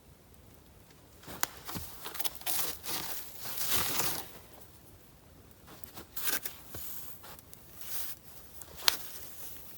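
Rustling and crinkling, like material being handled, loudest a second or so in and again around six seconds, with a couple of sharp clicks.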